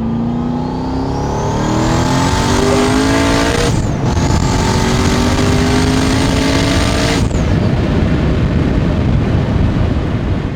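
Twin-turbo LS7 V8 of a Corvette Z06 at full throttle, heard from inside the cabin: the engine climbs in pitch with a high turbo whistle rising over it, shifts up about four seconds in and pulls hard again. A little after halfway the throttle closes and the engine note drops away, leaving the rush of wind and road noise at speed.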